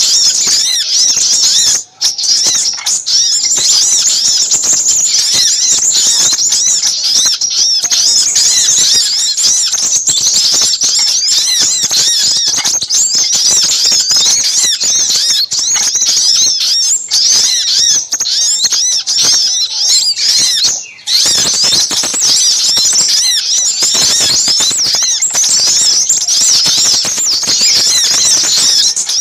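Bird-lure recording of a dense, noisy chorus of little spiderhunters mixed with crimson sunbirds: many high, rapid chirps and trills overlapping without pause, broken only by brief gaps about two seconds in and about twenty-one seconds in.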